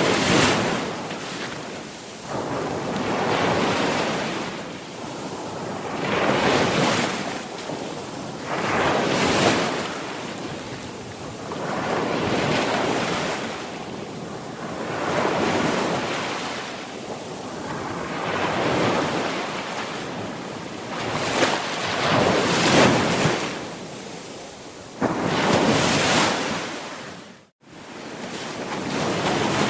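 Ocean waves breaking and washing in, a rush of surf that swells and ebbs every few seconds, with some wind. The sound cuts out abruptly for a moment near the end.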